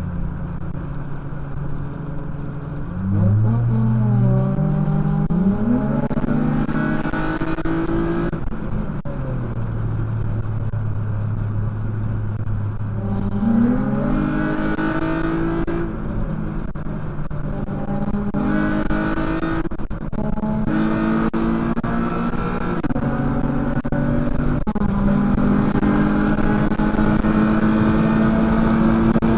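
Toyota Camry's 3.5-litre 2GR-FE V6 under hard acceleration: the revs climb in several pulls, with the pitch breaking and dropping back at each gear change, and stretches of steady running between them. The revs rise slowly again near the end.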